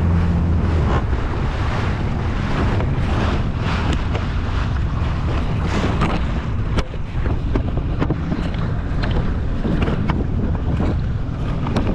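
Wind buffeting the microphone over open water, with water splashing and a few short knocks. A steady low engine hum stops about half a second in.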